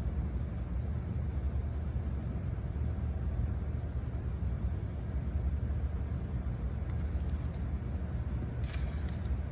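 Insects chirring in one steady, unbroken high-pitched drone, over a constant low rumble.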